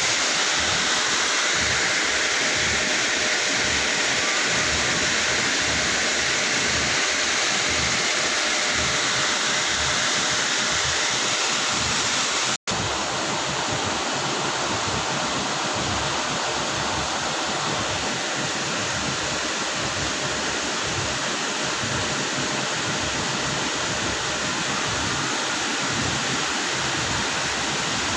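Wastewater-treatment machinery running with a steady, even rushing noise. It drops out for an instant about twelve seconds in, then carries on slightly quieter.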